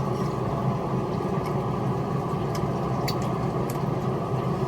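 Engine idling with a steady low drone, a few faint clicks over it.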